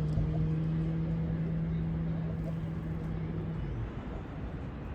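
A steady motor hum, like an engine running, that drops slightly in pitch and stops a little over halfway through. It is followed by outdoor background noise.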